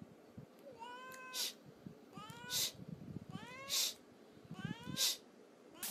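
A cat making four short rising meows about a second apart, each followed at once by a brief high hiss.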